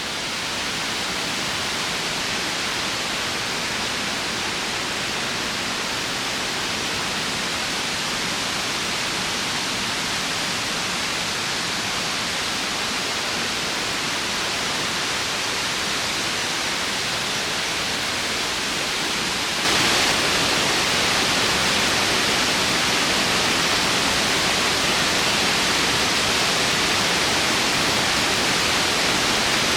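Waterfall's water rushing as a steady, even roar. The sound jumps suddenly louder and brighter about two-thirds of the way in.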